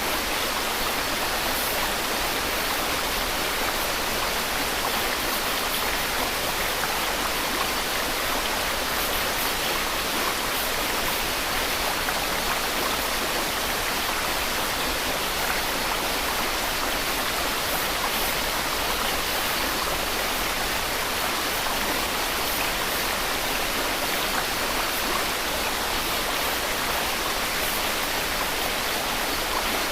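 Steady white noise: an even, unbroken hiss with no change in level or pitch.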